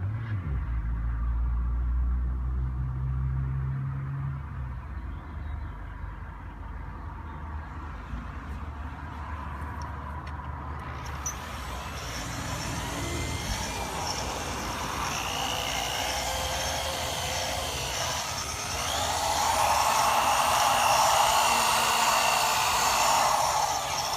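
Electric drill spinning a foam compounding pad against a plastic headlight lens with rubbing compound, a steady whirring with a whine. A higher whine comes in about halfway and it grows louder near the end.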